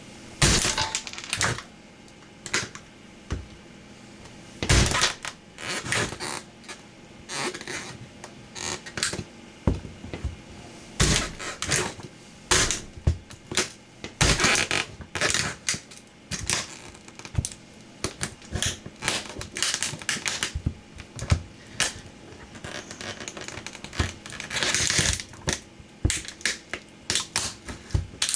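A toy truck cracking and crunching as it is crushed underfoot by boots, in irregular sharp snaps, with denser bursts of crackling about five seconds in, in the middle, and near the end.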